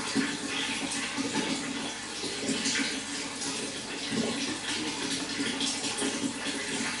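Running water flowing steadily, a continuous rush with an uneven, churning texture.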